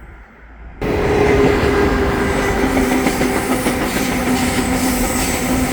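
Via Rail Siemens Venture passenger train passing close, wheels clattering on the rails. It starts abruptly about a second in and carries a steady humming tone that drops in pitch partway through.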